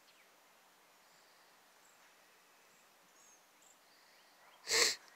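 Quiet open-air ambience with faint, brief bird chirps. Near the end comes one short, loud huff.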